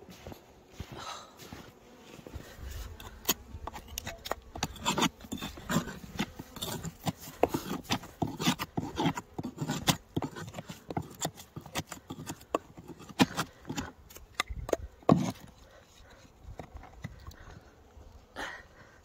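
Irregular knocks and scrapes on wooden beehive boxes as the hives are handled and cleared of snow, busiest in the middle, with honeybees buzzing at times.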